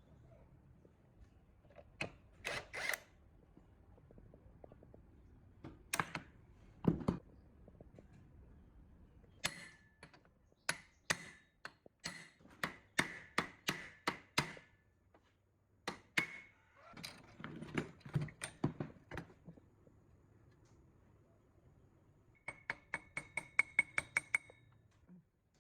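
Metal hand tools knocking and clinking on metal parts. There are a few dull knocks first, then a run of sharp ringing metallic taps about three a second, and near the end a quicker run of ringing clicks.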